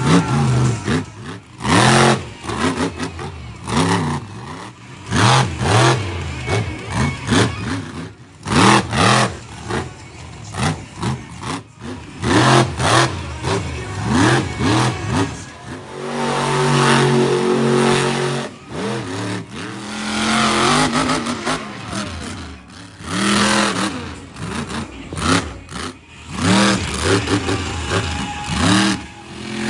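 Monster truck engines revving hard in repeated surges, the pitch climbing and dropping again and again, with sudden loud knocks scattered between.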